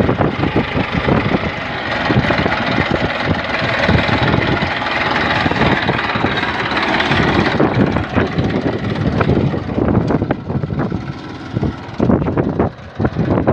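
Tractor engine running steadily while working in a field, pulling an implement to mark out cotton rows, with wind buffeting the microphone. About halfway through the high hiss eases and the sound turns more uneven.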